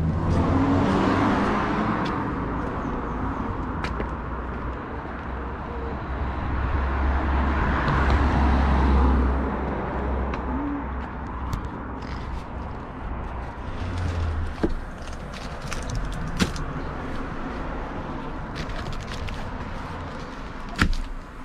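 Motor vehicle rumble with a deep low drone that swells and fades about eight seconds in, with a few scattered clicks and knocks.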